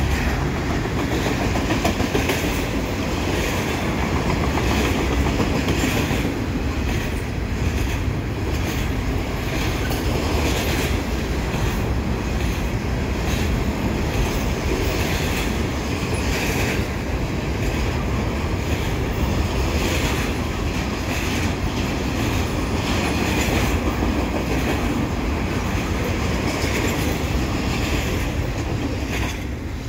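Double-stack container train's loaded well cars rolling past at speed, a steady rumble with repeated clacking of the wheels. The sound falls away near the end as the last car goes by.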